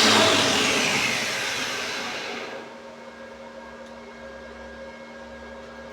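Electric grinder switched off and spinning down: its loud grinding noise falls away over about two and a half seconds, then only a steady low electrical hum remains.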